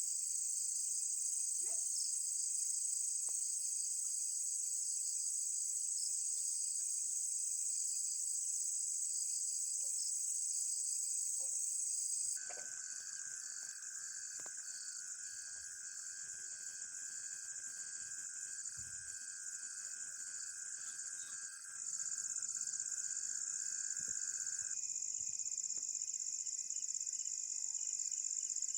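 Chorus of night insects trilling steadily, a dense high-pitched shrill with several fainter, lower steady tones under it. About twelve seconds in the sound abruptly changes and a lower steady trill joins, dropping out again about twelve seconds later.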